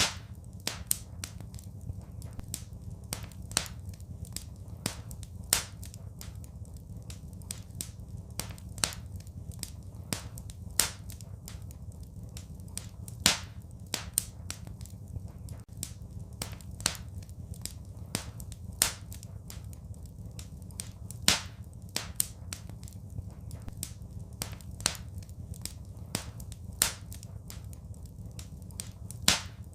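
Fireplace fire crackling: sharp, irregular pops and snaps, roughly one or two a second and varying in strength, over a steady low rumble of the flames.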